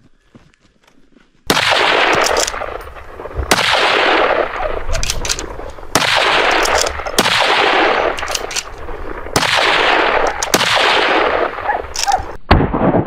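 A string of about seven hunting gunshots, fired one to two and a half seconds apart, each followed by a long echoing tail. The shots begin about a second and a half in.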